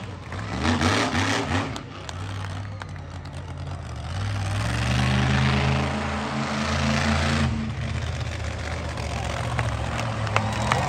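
Monster truck engine revving under load. Its pitch climbs about four seconds in, holds high for a few seconds, then drops back.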